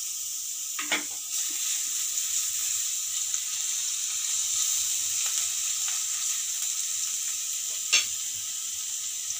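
Minced garlic frying in hot oil in a nonstick pan: a steady sizzling hiss as a silicone spatula stirs it, with two brief clicks of the spatula, about a second in and near the end.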